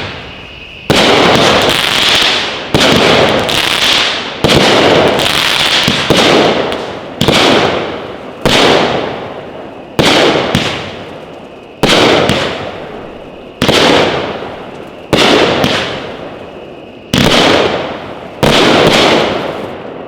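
Elite Fireworks H-Town Madness 200-gram cake firing, with loud shots booming one after another about every one to two seconds. Each shot starts sharply and dies away over a second or so.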